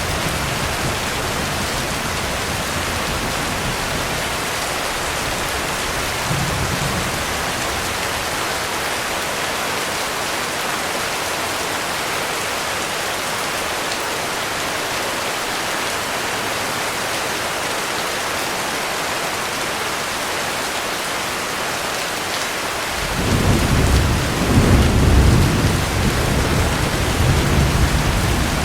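Heavy rain falling steadily. About four-fifths of the way in, a low roll of thunder swells up and rumbles on for several seconds.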